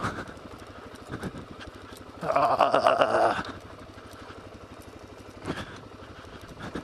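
Suzuki DR-Z400S single-cylinder four-stroke engine running steadily under a rider on a rocky dirt trail. About two seconds in, a loud wavering sound lasts just over a second.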